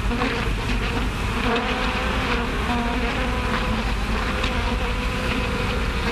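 A swarm of bees buzzing: a dense, steady drone that holds throughout and cuts off suddenly at the very end.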